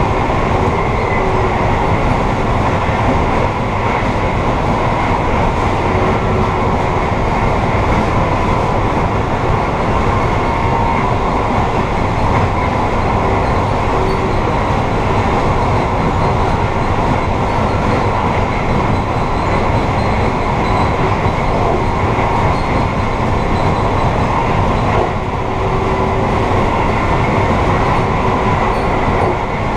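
Amtrak passenger train running at speed, heard from inside the rear vestibule: a steady rumble of the wheels on the rails, with a faint steady whine running through it.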